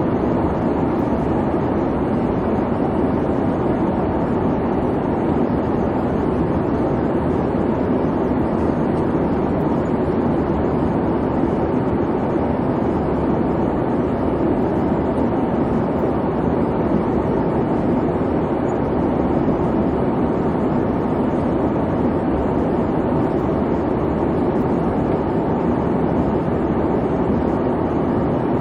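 Airliner cabin noise in flight: a steady, even rumble of engines and airflow with no changes.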